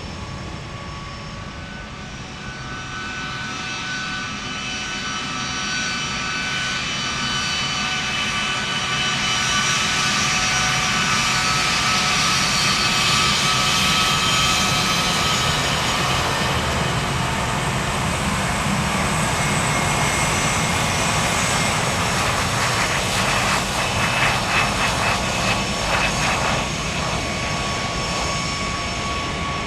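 Jet engines of a Boeing C-32A (757-200) with Pratt & Whitney PW2000 turbofans, a steady whine over a rushing noise. It grows louder over the first ten seconds and stays loud, with a crackling flutter a little over twenty seconds in.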